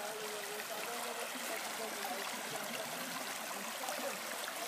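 Rainforest creek water flowing in a steady rush, with faint gurgles.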